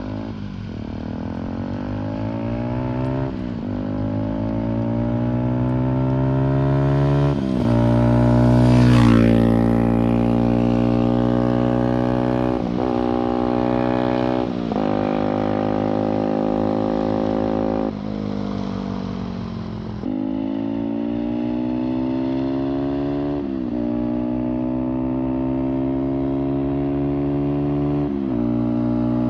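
Benelli TNT 125's single-cylinder four-stroke engine, breathing through a decat down-pipe exhaust, pulling steadily through the gears: the engine note climbs, drops sharply at each shift, and climbs again several times over. It is loudest about nine seconds in.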